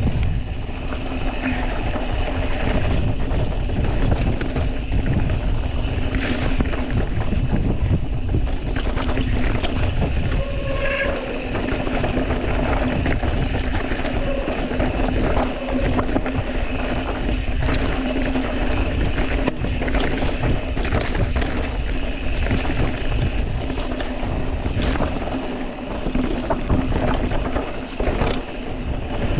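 Wind rushing over the microphone while riding a mountain bike downhill, with steady rolling noise from the tyres on the dirt trail and scattered clicks and rattles from the bike.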